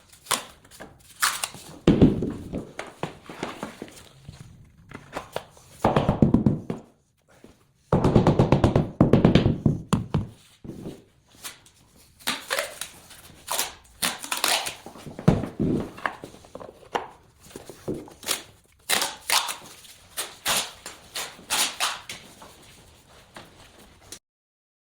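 Irregular knocks and thuds from wooden parquet boards being handled and laid, with a few denser, louder stretches of knocking; the sound cuts off abruptly near the end.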